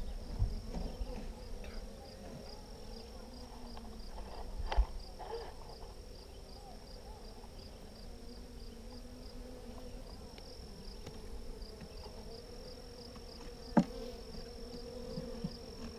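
Honeybees buzzing steadily in a dense hum around an open hive. Two sharp knocks, about five seconds in and again near the end.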